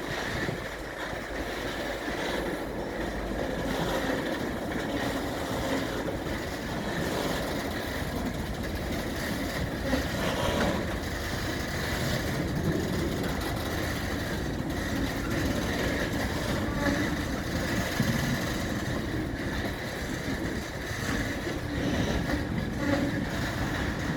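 Engineering train hauled by a Class 66 diesel locomotive passing: a steady, continuous rolling rumble of the train on the rails with engine sound, with no single loud event.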